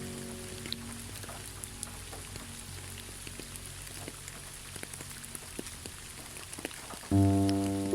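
Rain falling steadily, with scattered sharp drop ticks. A soft music chord fades out in the first second or so, and a loud new chord comes in about seven seconds in.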